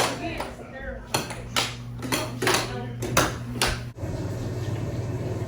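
Sharp clacks of hard objects knocking together, about six irregular strikes, with faint voices. After about four seconds they stop abruptly and give way to a steady low hum of room noise.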